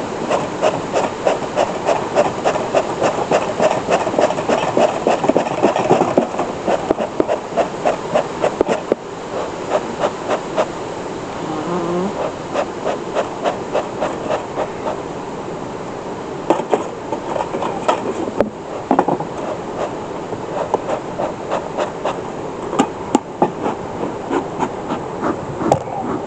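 Bee smoker's bellows pumped in quick, repeated puffs, about three a second, to revive a smoker whose fuel is dying out; the puffing eases after about nine seconds. Honey bees buzz throughout.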